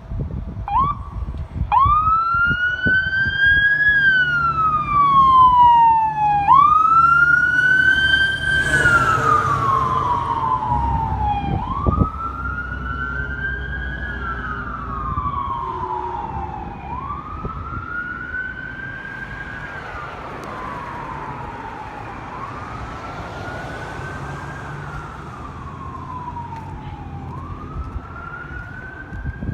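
Emergency vehicle's electronic wail siren. Each cycle rises quickly and falls slowly, about every five seconds, over a low engine rumble. It is loudest in the first ten seconds, then fades as the vehicle moves away.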